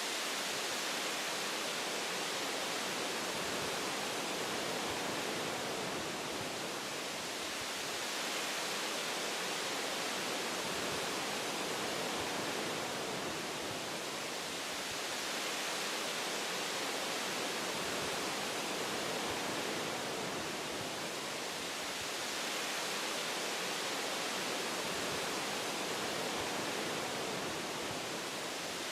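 Wind through tree branches: a steady, even hiss that swells and eases gently every several seconds.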